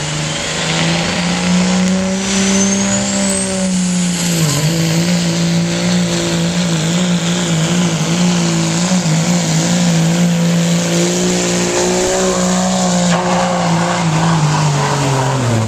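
Modified Ford F-350 diesel pickup pulling a sled at full throttle, its engine held at high revs, with a high whistle rising over the first few seconds. The revs drop off just before the end as it lets off.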